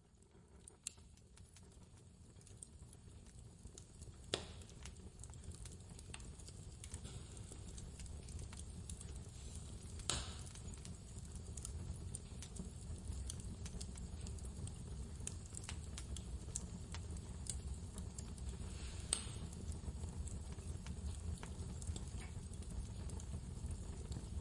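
Fireplace crackling, with many small clicks and a few sharper pops, over a low steady rumble. It fades in from silence over the first several seconds, and the louder pops come about four, ten and nineteen seconds in.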